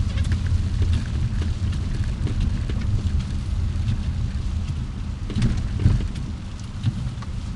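Car driving on a snowy road: a steady low rumble of engine and tyres with scattered light ticks and taps.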